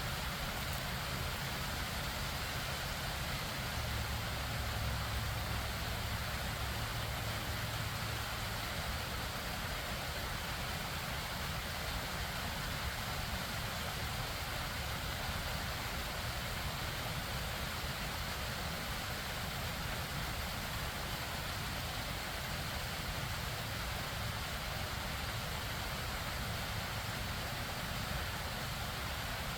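Steady rush of flowing water from a stream and waterfall.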